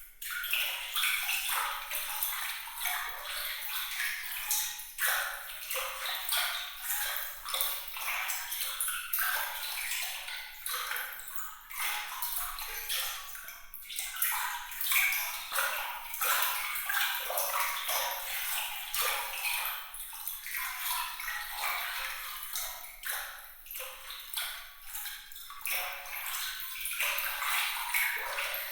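Water trickling and splashing in a dense, continuous run of small bright droplet sounds, high-pitched with no low rumble.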